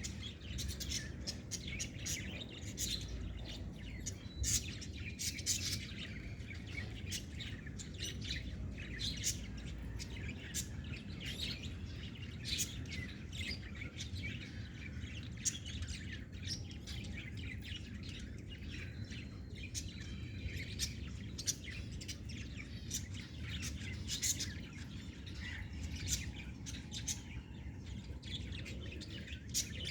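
Small birds chirping: many short, high calls in quick, irregular succession, over a low steady background noise.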